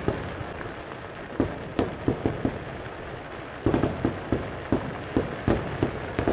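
Aerial firework shells bursting in the sky: more than a dozen sharp bangs at irregular intervals, coming in a quick cluster about three and a half seconds in, over a steady background hiss.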